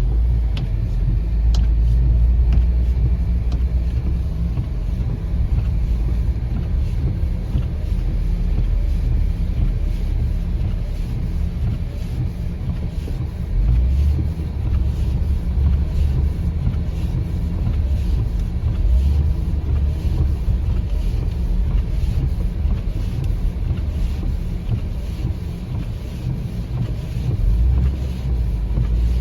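Car driving on a snow-covered road: a steady low rumble of engine and tyres, with faint ticks throughout.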